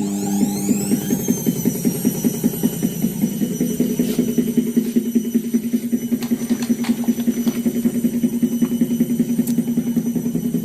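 Washing machine spinning. The motor whine rises over the first second and then holds steady, over a hum with a rhythmic thumping about four times a second as the machine shakes, and a few sharp clicks.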